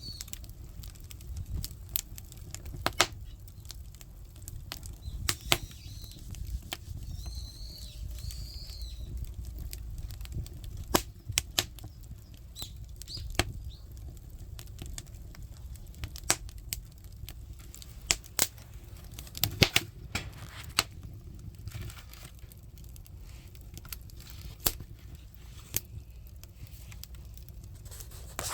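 Firewood burning in a traditional Korean earthen kitchen stove (budumak): irregular sharp pops and crackles over a low, steady rumble of the fire.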